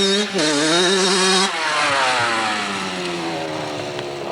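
Dirt bike engine revving hard, its pitch rising and dipping with the throttle, with a brief cut about a third of a second in. After about a second and a half the note falls slowly and grows fainter.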